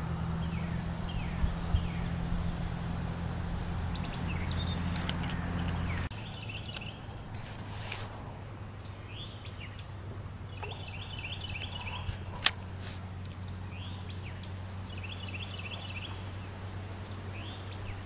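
Songbirds singing: short chirps at first, then quick trilled phrases repeated every few seconds, over a steady low hum. One sharp click about twelve seconds in.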